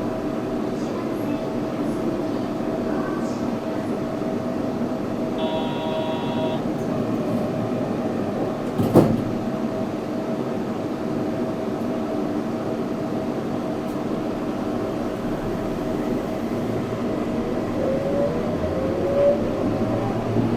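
Yurikamome 7300-series rubber-tyred automated guideway train running, a steady hum of tyres and motors with held tones. A short high-pitched tone comes about five seconds in, and a single sharp knock about nine seconds in. Near the end a whine rises in pitch.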